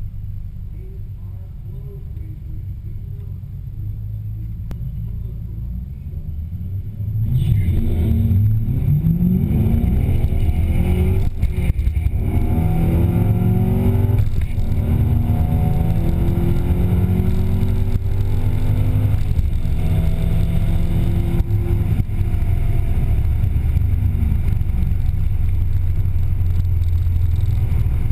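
Stock C5 Corvette's 5.7-litre V8 heard from inside the cabin: a low rumble for about seven seconds, then a sudden full-throttle launch down the quarter mile, the engine note climbing in pitch through each gear with short breaks at the upshifts. Near the end it runs steadier.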